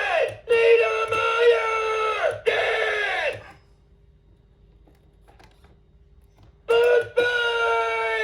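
Gemmy animated Bluto figure playing its recorded vocal clip through its small built-in speaker, thin and lo-fi, with long held sung notes. It stops for about three seconds in the middle, leaving only a faint steady hum, then starts again with more held notes near the end.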